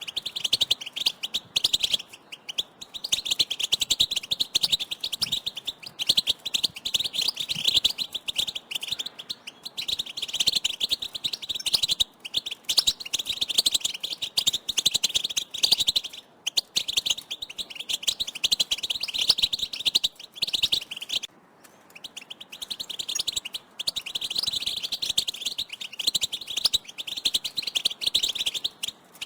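Several European goldfinches calling and twittering in a dense, rapid run of high chirps, broken by a few short pauses.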